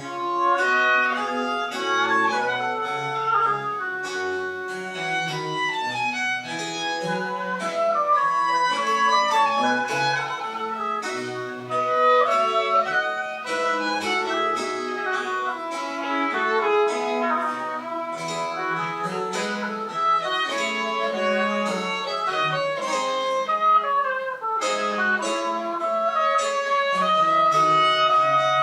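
Chamber ensemble of winds and strings playing French Baroque music, a busy texture of quick notes.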